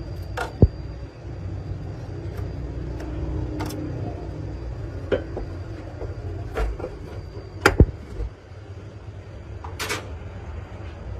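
Scattered sharp knocks and clicks, about seven of them at uneven intervals with two close together near the end, over a steady low rumble.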